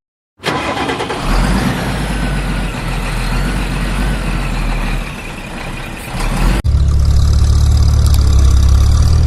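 Vehicle engine running: a rough, noisy engine sound that cuts abruptly about six and a half seconds in to a louder, deep, steady engine rumble.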